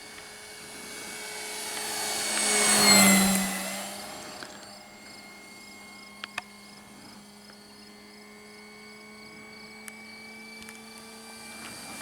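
Electric motor and propeller of an E-flite Cessna 150 Carbon-Z RC plane, a steady whine that swells as the plane flies past about three seconds in, its pitch dropping as it goes by, then fades back to a steady distant whine.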